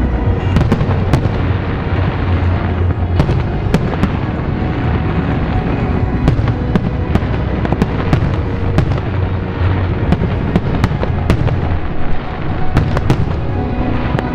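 Fireworks display: many sharp cracks and bangs in quick, irregular succession over a continuous low rumble of shell bursts, with music playing underneath.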